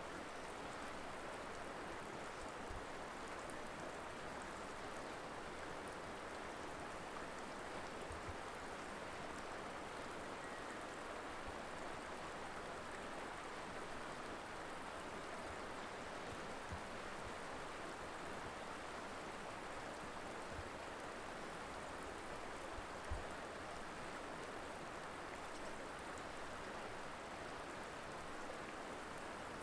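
River water flowing over rocks, a steady rushing, with a few faint low thumps, the strongest about 23 seconds in.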